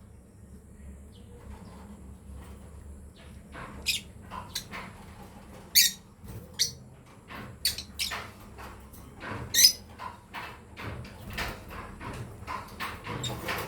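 Lovebirds giving short, sharp, high chirps now and then, starting about four seconds in, with scratchy knocking and rustling between the calls.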